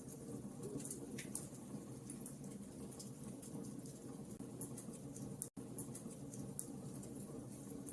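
Wood fire crackling in a fireplace: a steady low rush of flame with frequent small sharp pops and snaps. The sound cuts out for an instant about five and a half seconds in.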